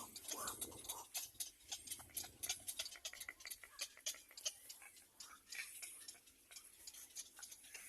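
Faint, irregular rapid clicking and ticking, several clicks a second, with a faint low murmur in the first second or so.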